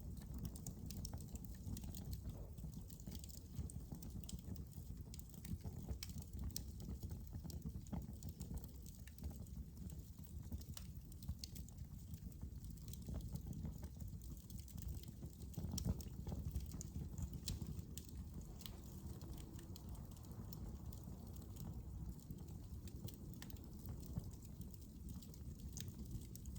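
Fire burning in a fireplace: a steady low rumble of flames with frequent irregular crackles and pops.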